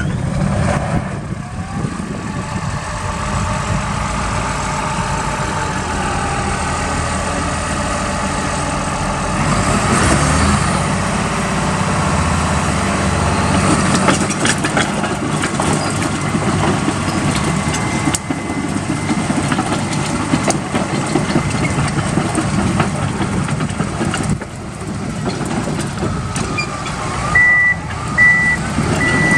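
Komatsu D65WX-17 crawler dozer's diesel engine running steadily. Near the end its reversing alarm starts, a high beep repeating a little under twice a second.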